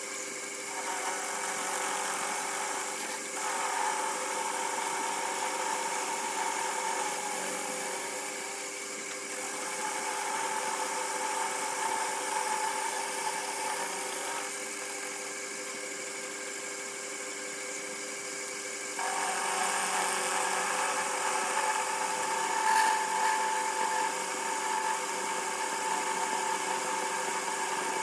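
TV-16 lathe running with its milling attachment: a steady machine hum with several fixed tones. A louder, higher whirring band comes and goes in about four spells, as when the cutter engages the work.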